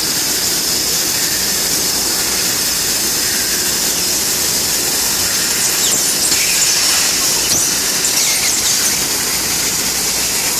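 CNC laser cutting machine running: a loud, steady high hiss, with a few faint short squeaks about six to nine seconds in.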